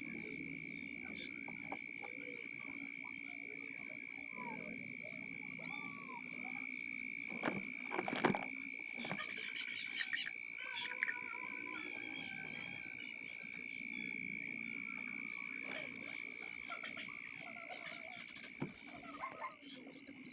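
Steady chorus of calling frogs and insects, a continuous high trill. A few sharp knocks stand out about seven to eight seconds in, with smaller clicks and rustles scattered through.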